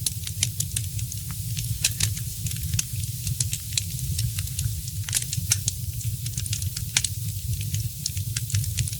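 Wood fire crackling, with frequent sharp pops of varying loudness over a steady low rumble.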